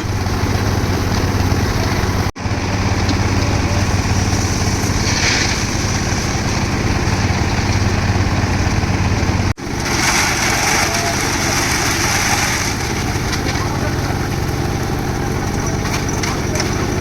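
Concrete mixer running with a steady engine drone. It cuts out abruptly for an instant about two seconds in and again near ten seconds, followed by a harsher hiss for a few seconds.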